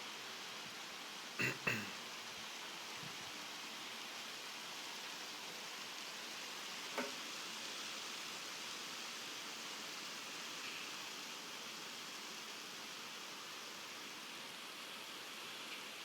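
Steady hiss of falling rain. A couple of sharp knocks come close together about a second and a half in, and another around seven seconds in.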